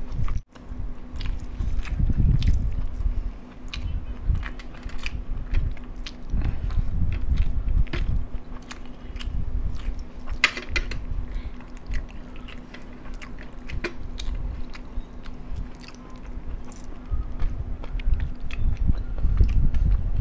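Loud, close-miked chewing and biting of masala rice and crispy fried chicken drumsticks: wet mouth sounds with many small clicks and crunches, over a faint steady hum.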